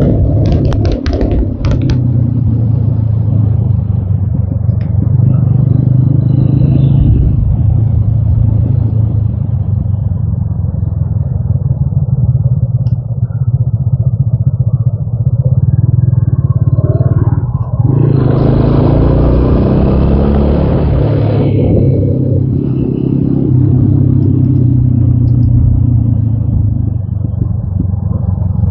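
TVS Apache RTR 200 4V's single-cylinder engine running steadily under way, heard from on the bike. There are a few sharp clicks in the first two seconds, and a louder rushing noise lasts about three seconds around two-thirds of the way through.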